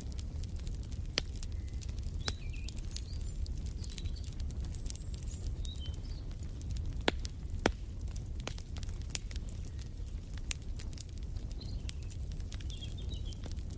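Wood fire crackling in a fireplace: irregular sharp pops and snaps over a steady low rumble of the flames, with a couple of louder pops about halfway through. Faint birds chirp now and then.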